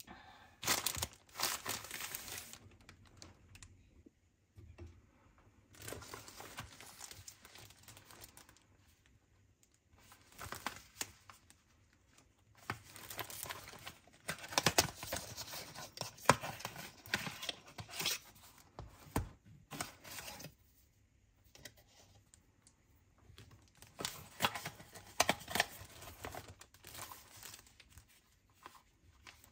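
Packaging being torn open and crinkled by hand, in about five bursts of rustling with short pauses between.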